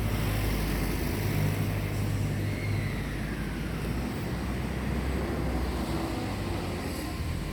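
Electric commuter train running, a steady low rumble with a brief falling whine about two and a half seconds in.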